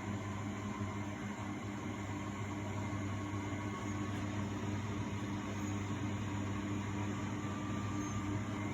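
1999 Miele Novotronic W828 front-loading washing machine running its Cotton 60 wash: a steady motor hum with no pauses or changes.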